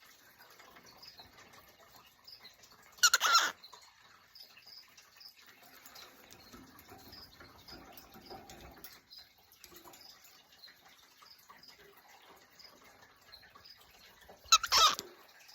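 Cockatiel giving two short, loud calls with a wavering pitch, one about three seconds in and one near the end, with faint high ticks in between.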